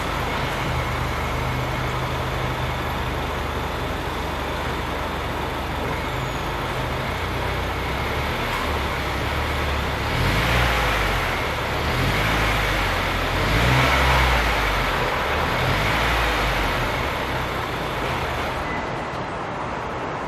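Subaru WRX S4 with a Kakimoto aftermarket exhaust idling, then blipped about four times in the middle before it settles back to idle.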